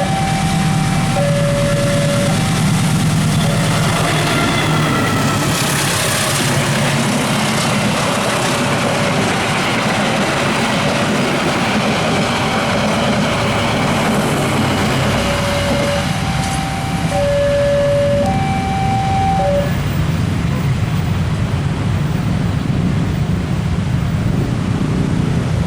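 A long train passing at speed with steady wheel-on-rail noise, while a two-tone electronic warning alarm repeats over it. The alarm stops about three-quarters of the way through.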